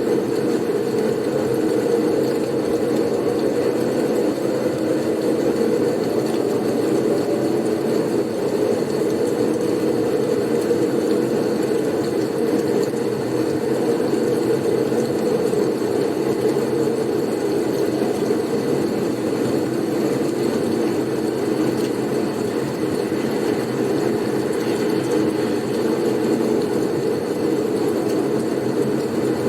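Blizzard wind ambience: a steady, unbroken low rush of wind, with no gusts or changes.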